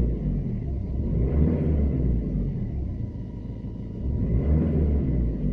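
Renault Laguna 2 1.9 dCi four-cylinder turbodiesel engine running with a deep, low rumble that swells twice.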